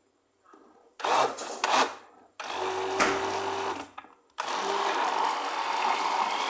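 Electric blender running in two bursts, the first about a second and a half long and the second about three seconds, after a short clatter.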